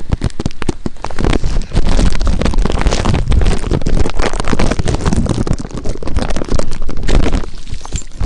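Wind and rain buffeting the camera's microphone: a loud, continuous rumbling rush crowded with knocks and crackles.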